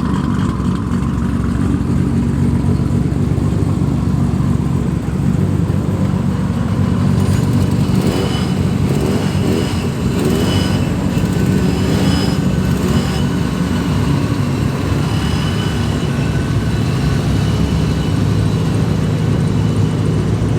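A motor vehicle running steadily, with a continuous low engine hum; faint higher tones come and go about eight to thirteen seconds in.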